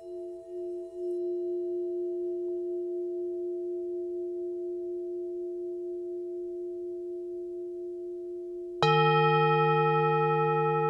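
Tibetan singing bowls ringing: a long, wavering hum slowly fades, then near the end a bowl is struck and sounds a louder, deeper ring with many overtones that pulses gently as it sustains.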